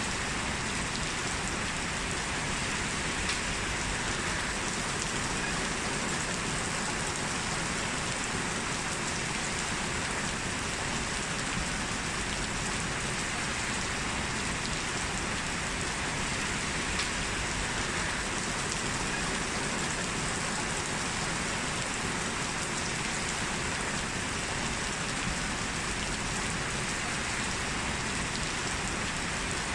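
Heavy rain falling steadily on hard surfaces, a dense even hiss with scattered individual drop hits.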